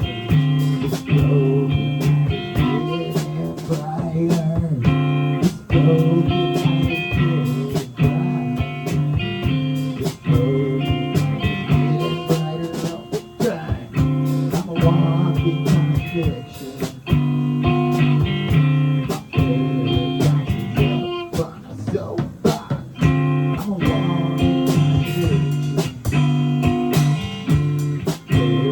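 Live band playing a blues number led by guitar, with a steady beat.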